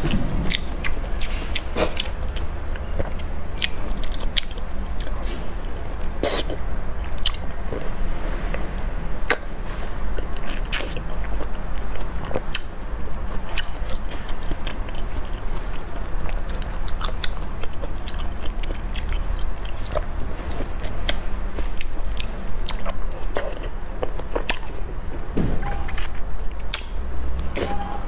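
Close-miked biting and chewing of a whole peeled onion, with many sharp crisp crunches scattered irregularly over a steady low hum.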